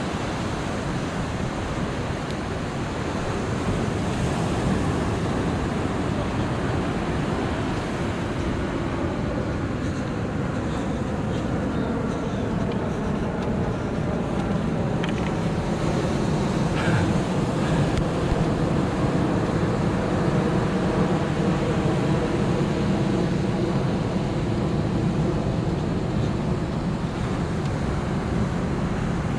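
Ocean surf washing onto the beach, a steady rushing wash, with wind buffeting the microphone.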